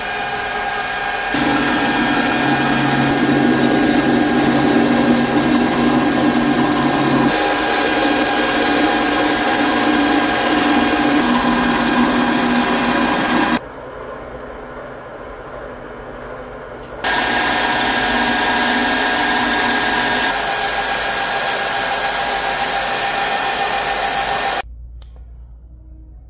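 Woodworking power tool running steadily with a steady motor whine. The sound drops away sharply about halfway through, comes back a few seconds later, and drops again near the end.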